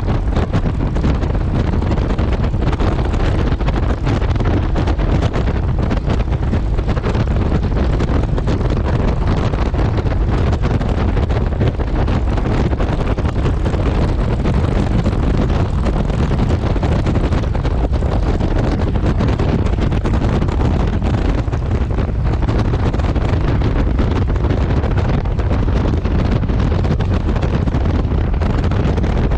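Steady wind rushing over the microphone of a camera on a moving motorcycle, with the bike's engine and road noise beneath it.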